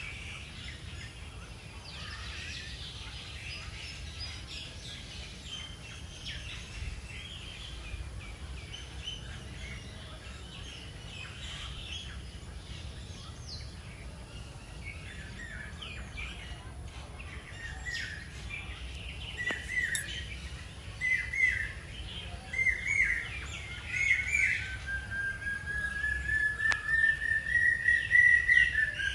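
Many birds chirping and calling over a low, steady outdoor rumble. In the last third, louder short calls repeat, and near the end a long whistle rises slowly in pitch.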